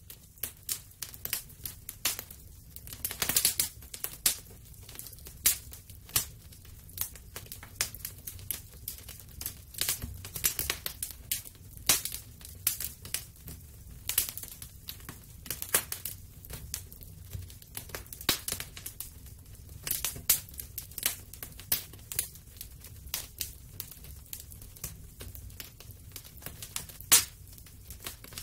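Wood fire crackling in a fireplace: irregular sharp pops and snaps, several a second, over a low, steady rumble of the burning.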